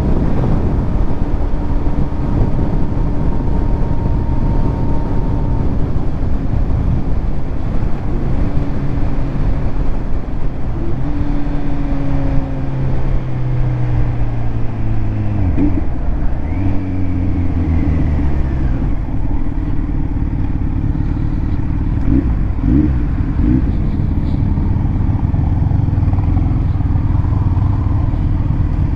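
Kawasaki Z900 inline-four engine through a titanium Arrow exhaust, heard from the rider's position on the move under heavy wind noise on the microphone. Around the middle the engine note falls several times as the bike slows.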